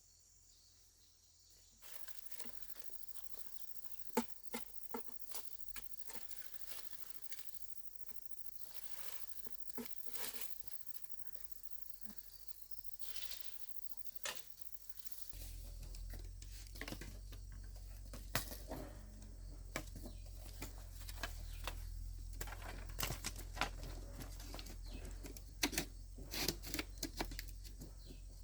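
Irregular sharp clicks and knocks with rustling, as of materials being handled. A low steady hum comes in about halfway through.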